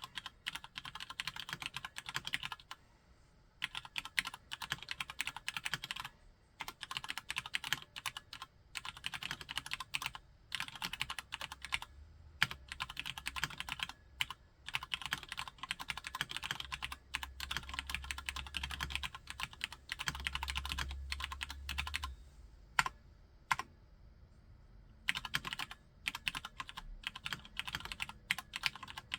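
Typing on a Cherry G80-3000S tenkeyless mechanical keyboard with Cherry MX Brown switches: rapid runs of key clacks in bursts, broken by short pauses, the longest about 22 seconds in.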